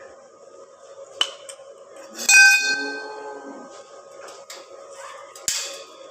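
Aluminium metalwork being handled: a sharp knock, then a loud metallic clang that rings on for over a second, then another sharp knock and a few lighter clicks, over a faint steady hum.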